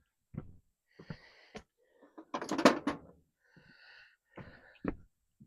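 Hand tools clicking and knocking on the outboard's metal as an Allen wrench is worked into a tight screw, with one louder rasping scrape about halfway through.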